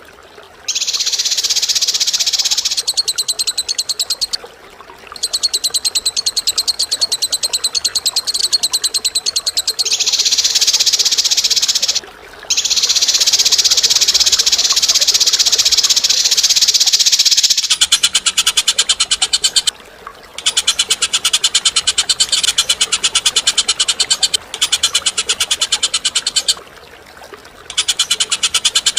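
Bird song for a masteran recording: long, harsh, high-pitched rattling trills made of very fast repeated notes, in phrases of several seconds separated by short breaks. About two-thirds of the way through, the song shifts to a lower-pitched rattle.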